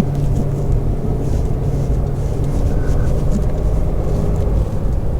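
Four-wheel-drive car driving on a bumpy unpaved mountain road: a steady low engine hum over continuous road rumble, with faint rattles.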